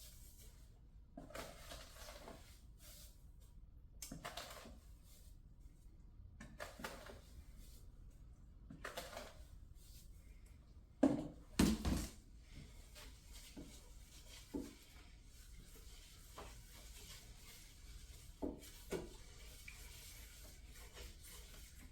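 Quiet, scattered knocks and clinks of kitchen utensils and cookware being handled, as a sweet-potato glaze mixture goes into a pan. Two louder knocks come about eleven and twelve seconds in.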